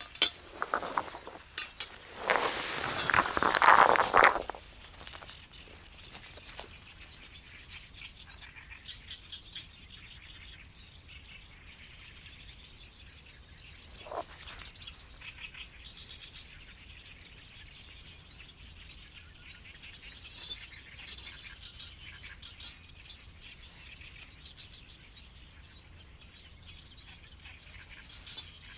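Birds chirping outdoors, with a loud noisy sound lasting about two seconds near the start and a single short knock about halfway through.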